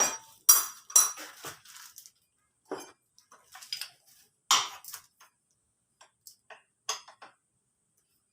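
Metal tools and engine parts clinking and clattering as they are handled while a Honda Vario scooter engine is stripped down: a string of irregular sharp clinks, the loudest about half a second, one second and four and a half seconds in, thinning out near the end.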